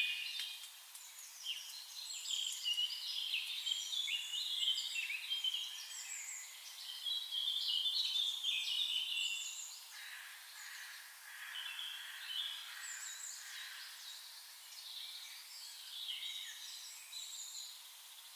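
Small birds chirping and singing together, a busy chorus of short high calls that thins out after about ten seconds.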